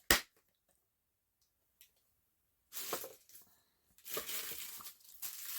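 A single sharp click, then plastic packaging rustling and crinkling in uneven bursts as an item is handled and unwrapped.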